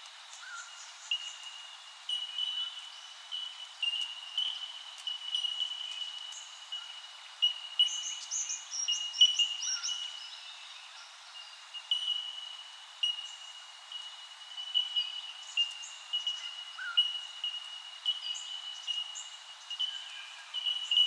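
Birds calling: a dense, unbroken run of short notes at one steady high pitch, with quicker, higher chirps and twitters over it, busiest about eight to ten seconds in.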